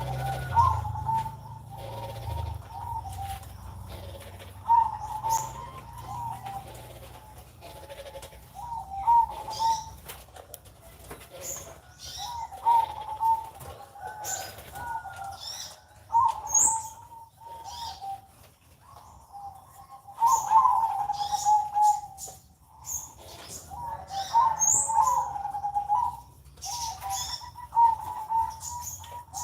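Zebra dove (perkutut) singing its song over and over, repeated trilling coo phrases a few seconds apart. Short high chirps from small birds come in between.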